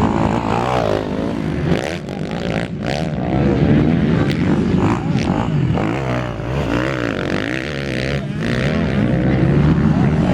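Several 250 cc enduro motorcycles racing, their engines revving up and down in overlapping, rising and falling whines as they work around the track.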